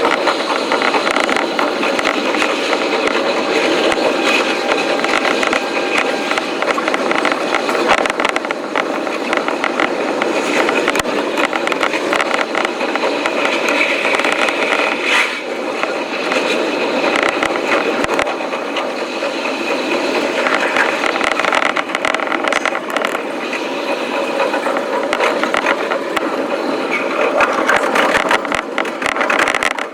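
Electric train running sound sped up fivefold: the wheel and rail clatter becomes a fast, dense, pitched-up rattle.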